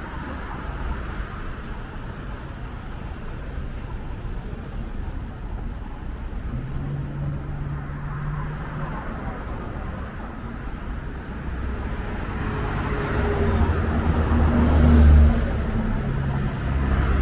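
Road traffic: a steady rumble of passing cars, with a heavier vehicle growing louder and passing close about fifteen seconds in.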